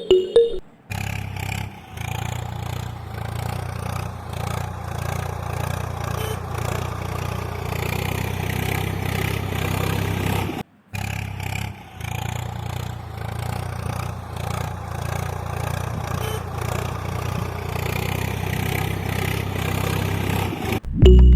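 A small motor running steadily with a low hum. It cuts out for a moment near the middle, then runs on the same way.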